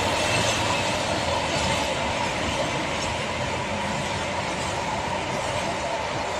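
Freight train rolling past, a steady rumble of wheels on rail with a thin steady whine on top, slowly getting quieter.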